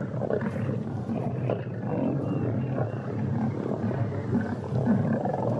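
Several lions growling without a break as they squabble over a zebra carcass while feeding.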